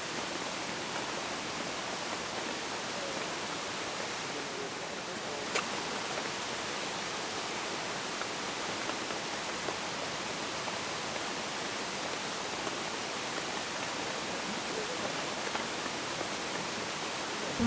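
Steady rain falling in a forest, an even hiss that does not let up, with a single sharp click about five and a half seconds in.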